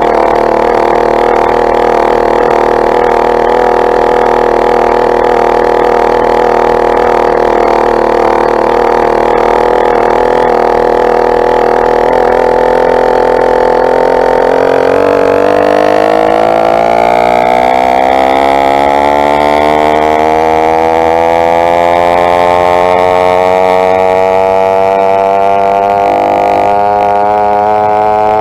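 Two-stroke engine of a motorized bike running loud and steady. About halfway through, its pitch climbs gradually and keeps rising as the engine speeds up.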